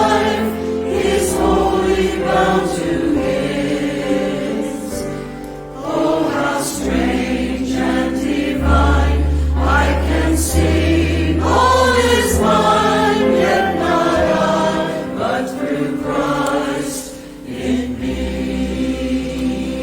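Choir singing a hymn arrangement, several voices together, over steady low held accompaniment notes.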